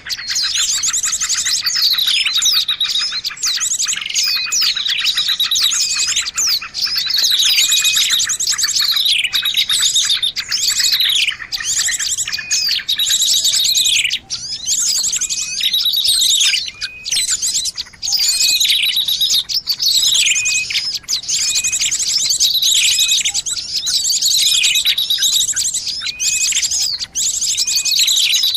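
Bird-lure recording of small birds chattering noisily: dense high chirps, rapid trills and falling whistles overlapping without a break, the same pattern recurring every few seconds.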